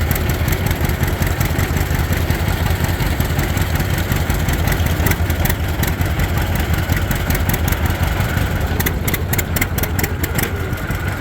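Tractor engine running steadily as the tractor drives along, with a quick run of clicks about nine seconds in.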